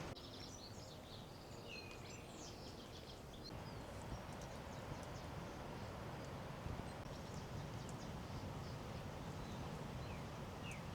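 Small birds chirping and calling over a steady outdoor background hiss, the chirps mostly in the first few seconds and a few more near the end.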